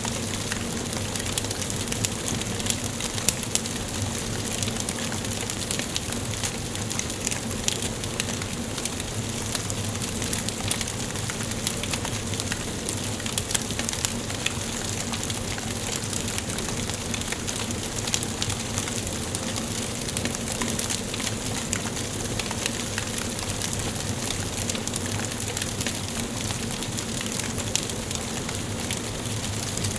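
Wood fire burning in a fireplace, a steady hiss and rustle with frequent small sharp crackles and pops throughout.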